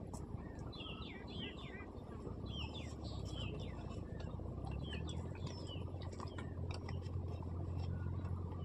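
Small birds chirping repeatedly in short, quick notes over a steady background din, with a low hum that grows in about a third of the way through.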